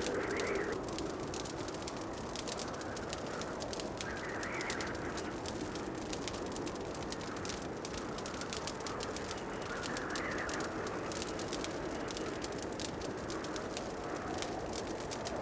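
Fireplace fire crackling, a steady stream of small sharp pops and snaps over a low rushing hiss, with a soft swelling sound coming back every five or six seconds.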